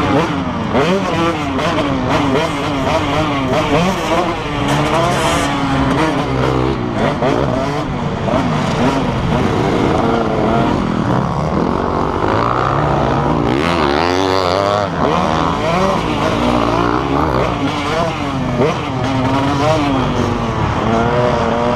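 Motocross bike engines revving hard, their pitch rising and falling over and over, with several engine notes overlapping at times.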